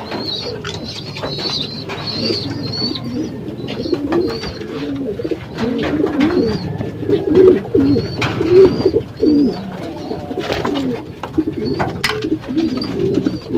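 Racing pigeons cooing in a loft, many birds overlapping continuously, with a short high chirp repeating about once a second above them and a few light knocks.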